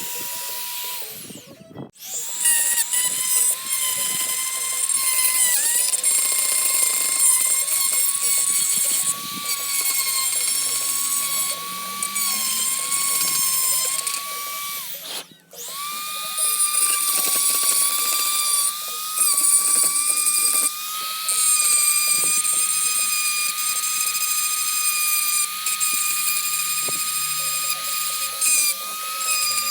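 Electric power tool running with a steady high whine and a scrubbing noise over it as it works the metal. It cuts out briefly about two seconds in and again about halfway, then winds back up each time.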